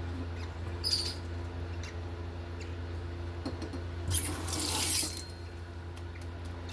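Liquid being handled while a feeding syringe of baby-bird formula is prepared: one short wet hiss about four seconds in, with a few faint clicks, over a steady low hum.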